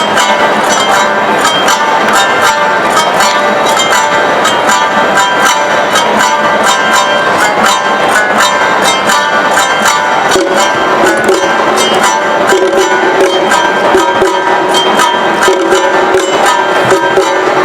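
Awa Odori festival music: shamisen playing with steady, evenly repeated strikes of hand gong and drums. A held melody line joins about ten seconds in.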